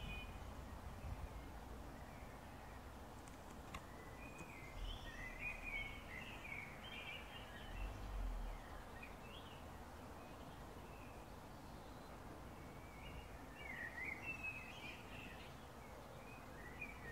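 Birds chirping faintly in two spells of quick, twittering rising and falling notes over a low, steady outdoor background hiss, with a couple of brief low rumbles.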